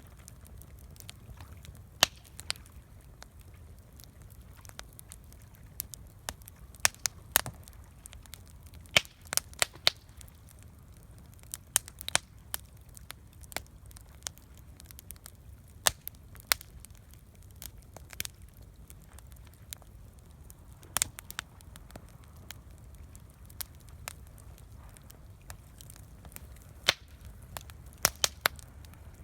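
Campfire crackling: wood popping and snapping in sharp, irregular clicks, some much louder than others, over a low steady rumble.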